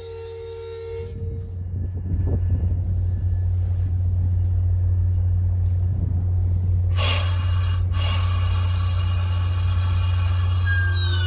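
MBTA commuter rail train creeping along the platform with a steady low rumble. A short hiss comes about seven seconds in, and a brief falling wheel squeal comes near the end.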